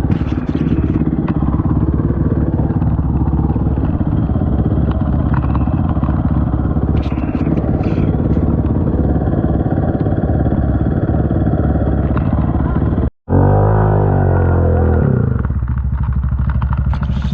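Honda TRX450 quad's engine running steadily under way on a trail. About thirteen seconds in the sound breaks off for a moment, then the engine revs up and drops back to a lower, steady run.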